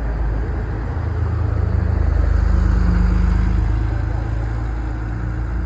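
A car engine running at low, steady revs as the car drives slowly past, growing louder to a peak a little before halfway and then fading.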